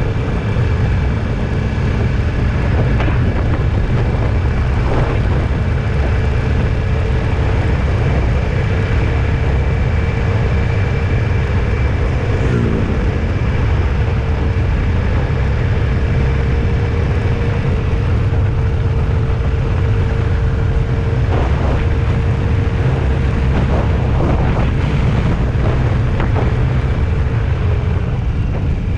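Vehicle driving on the road: a steady, loud low rumble of engine and road noise with a faint steady hum over it.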